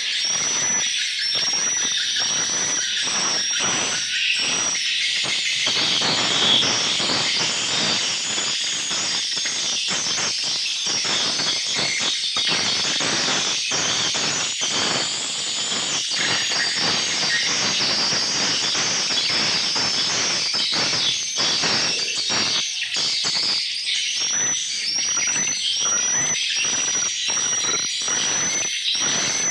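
A dense chorus of swiftlets (walet) calling inside a swiftlet house: many short, high chirps and rapid clicky notes overlapping without a break.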